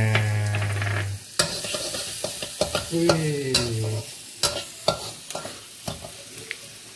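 Chopped shallots, garlic and chilli sizzling in butter in a wok. A metal spatula scrapes and clicks against the pan at irregular moments as the spice base is stirred.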